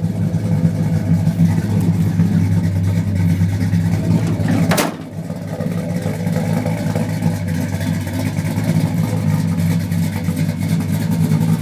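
383 stroker small-block V8 idling steadily through dual Flowmaster mufflers. A short click comes about five seconds in, after which the sound is a little quieter.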